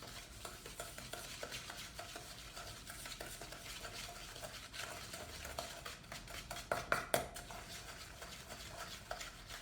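Spoon stirring a thick cookie-dough mix of butter, sugar and egg yolk in a small bowl: a steady run of scraping and clicking against the bowl, with a few louder knocks about seven seconds in.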